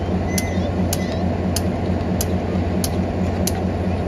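Steady low rumble of a moving vehicle, with a sharp, regular tick about every 0.6 seconds over it.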